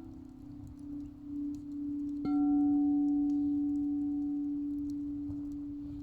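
Quartz crystal singing bowls ringing with a steady low tone that pulses slowly. About two seconds in a bowl is struck, adding a louder ringing tone that slowly fades.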